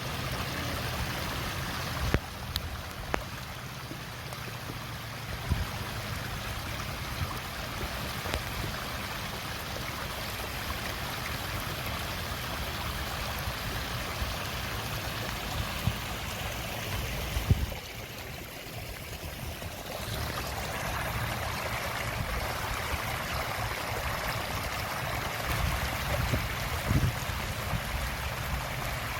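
A steady rush of flowing rainwater runoff, with a low rumble and a few short thumps. The sound changes character about two-thirds of the way through.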